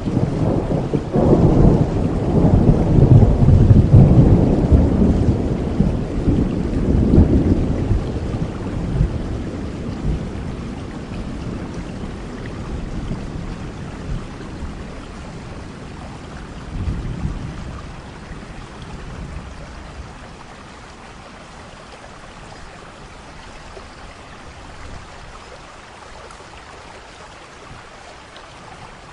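Thunderstorm: a long, loud roll of thunder rumbles over steady rain in the first several seconds and slowly dies away. A weaker rumble comes about halfway through, then only steady rain remains.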